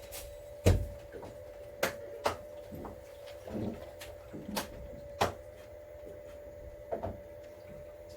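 About six sharp, irregular clicks and knocks, the loudest about a second in, over a steady hum.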